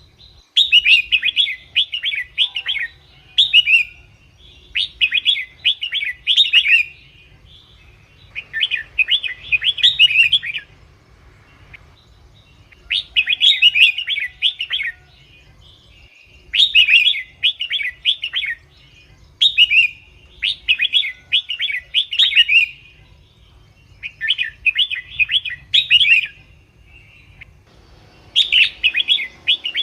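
Red-whiskered bulbul singing: short, quick chirpy phrases of a second or two, repeated every three to four seconds with brief pauses.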